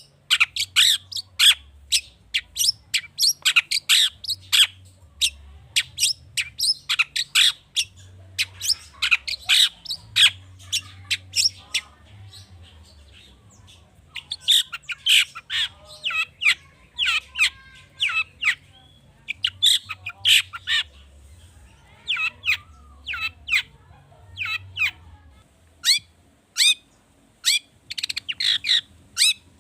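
Long-tailed shrike (cendet) singing a fast, excited run of sharp high chirps and harsh squawky notes strung into mimicked phrases from other birds' calls. The song breaks off briefly about twelve seconds in and again past twenty seconds.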